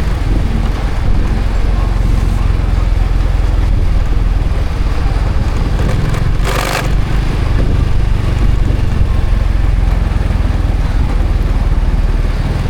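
Honda Supra X 125 FI motorcycle's single-cylinder four-stroke engine running underway, with a steady low rumble throughout. A brief hiss comes about halfway through.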